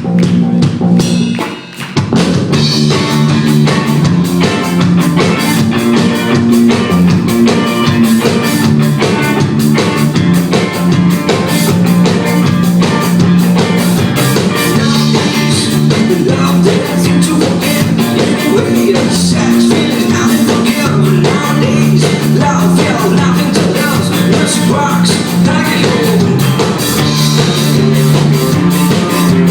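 Indie rock band playing live: drum kit keeping a steady beat under guitars and bass. The band drops out briefly about two seconds in, then comes back in at full volume.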